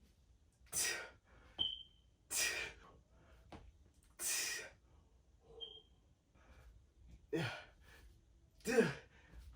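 A man's sharp, forceful exhales through the mouth, one with each rep of a shoulder press, about five in all and spaced every couple of seconds; the last is a voiced grunt that falls in pitch. Two short high pings sound between the breaths.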